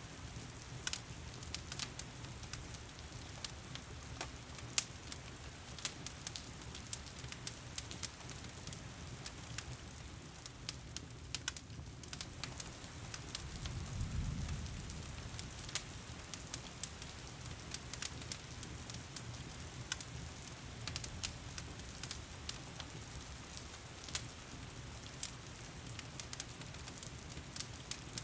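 Wood fire crackling in a fireplace, with frequent sharp pops over the steady hiss of heavy rain. A brief low rumble swells and fades about halfway through.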